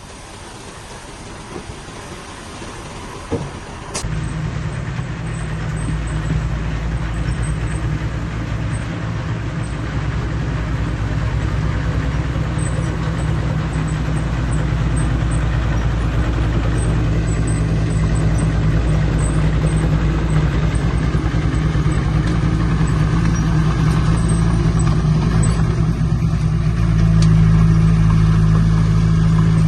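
Heavy diesel engine of earthmoving machinery running under load with a steady low drone. It comes in suddenly about four seconds in, after a quieter stretch with a couple of knocks, and grows louder toward the end.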